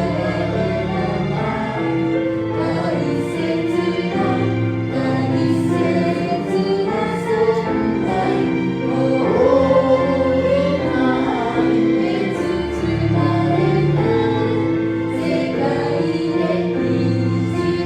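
Worship music: a group of voices singing a praise song together over sustained instrumental accompaniment.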